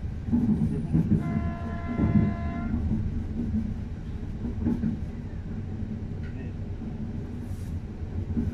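Passenger train running with a steady low rumble, heard from inside the carriage. About a second in, a train horn sounds once for about a second and a half.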